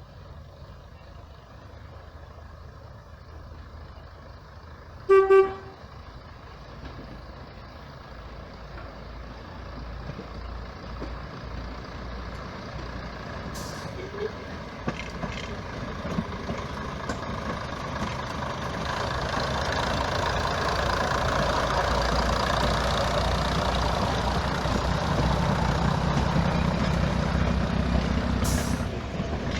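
A heritage train sounds one short toot on its whistle or horn, then draws closer and runs past, its rumble growing steadily louder and staying loud before easing off near the end.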